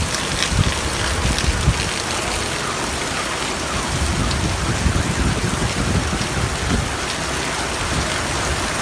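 Heavy downpour: rain pouring down in a steady, dense hiss, with low rumbling in the first couple of seconds.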